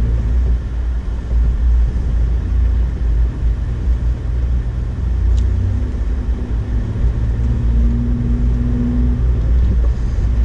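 2008 Honda Ridgeline's 3.5-litre V6 pulling in first gear with four-wheel drive locked, over a steady low rumble; its note grows a little stronger from about halfway through.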